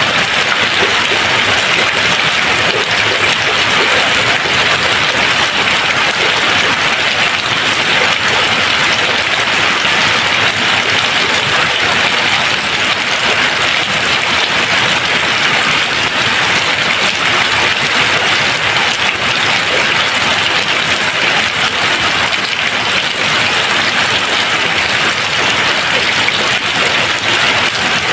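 Steady, even rain falling, a dense unbroken hiss of drops with no thunder.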